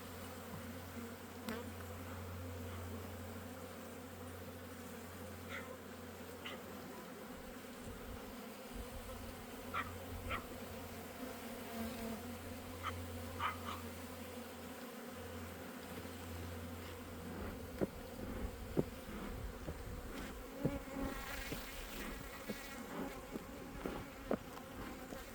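Honeybees buzzing in a steady hum around an opened hive, the colony agitated by the inspection, with single bees zipping close past the microphone now and then. A few light knocks come in the later part.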